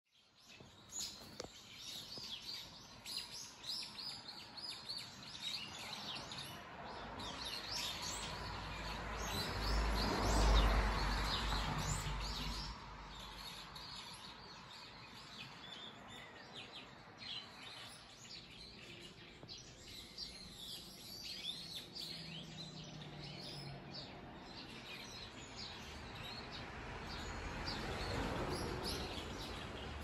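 Small birds chirping and calling over and over in the trees. About ten seconds in, a rushing swell of noise with a low rumble builds and fades, and a smaller swell rises near the end.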